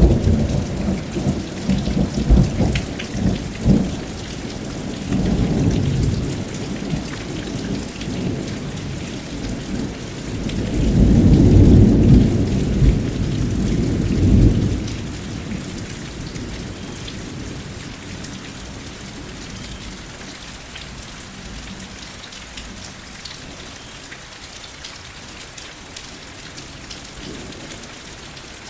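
Steady rain falling, with rolls of thunder rumbling over it: a first rumble that starts suddenly and crackles for a few seconds, and a louder, longer one about ten seconds in. The thunder dies away after about fifteen seconds, leaving only the rain.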